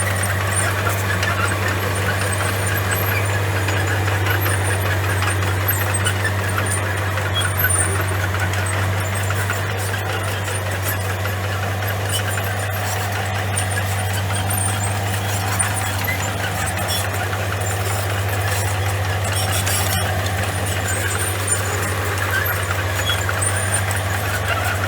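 Komatsu bulldozer's diesel engine running steadily with a constant low hum, with scattered clicks and rattles over it.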